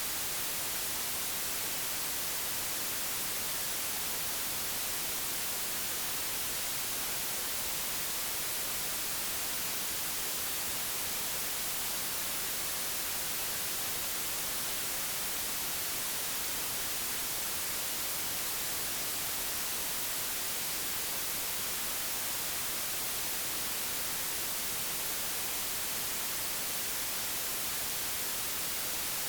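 Steady, unchanging digitally generated white noise: an even hiss, strongest in the treble.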